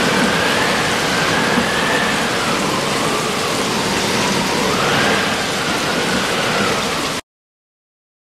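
Steady heavy rain sound effect, a dense even hiss with a faint tone slowly wavering up and down through it; it cuts off suddenly about seven seconds in.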